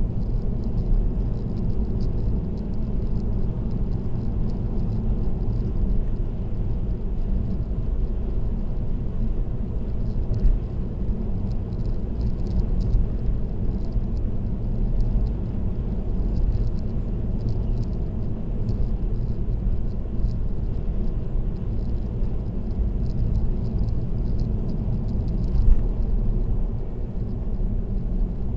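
Car driving at expressway speed: a steady low rumble of road and tyre noise, with a brief louder bump about a third of the way in and another near the end.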